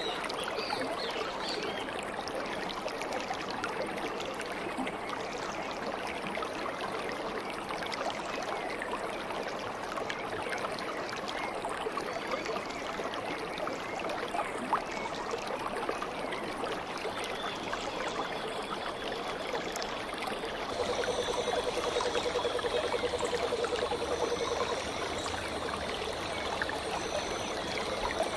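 A stream's water runs and trickles steadily, with a few short bird chirps near the start. In the second half a thin steady high tone and a repeating higher chirp join in. Midway through the second half a rapid low pulsing call rises above the water for a few seconds.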